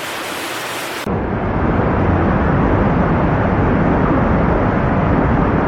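Roar of rushing floodwater, heard as a loud, steady, low rumbling noise. About a second in, a thinner hiss cuts off and the louder rumble takes over.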